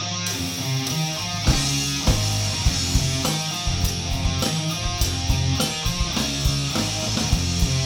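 Live rock band playing an instrumental passage: electric guitar and bass riff, with cymbals coming in just after the start and drum hits joining about a second and a half in.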